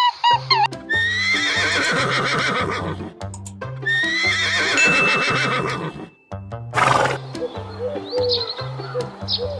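Horse whinnying twice, each whinny about two seconds long, followed by a short burst of noise about seven seconds in. Background music with a steady beat plays underneath.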